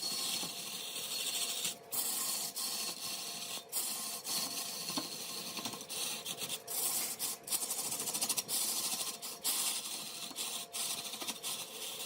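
A cutting tool shaving a mahogany workpiece spinning on a large wood lathe: a steady hiss of cutting, broken by brief gaps every second or so, over a faint steady hum.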